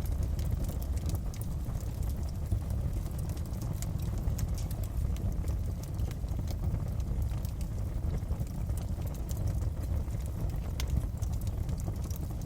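Wood fire crackling in a fireplace: a steady low rush of flames with frequent small, sharp crackles and pops scattered throughout.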